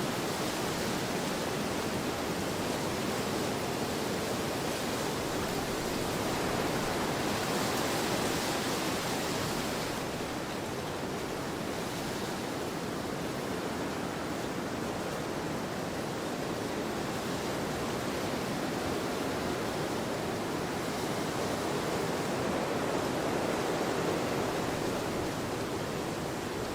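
Wind blowing across an open field: a steady rushing that swells twice in gusts and eases between them.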